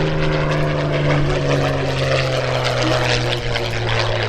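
Supermarine Spitfire's piston engine and propeller running hard as it flies past. The engine note falls slowly in pitch as it goes by.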